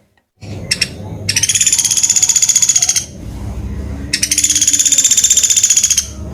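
Pelatuk beras woodpecker calling: two long, rapid trills of about two seconds each, with a short pause between them, the first starting about a second in.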